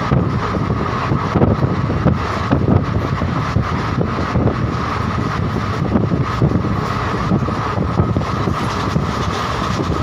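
Passenger train running at speed, heard from an open window: a steady rumble and rattle of wheels on the track, with wind blowing on the microphone.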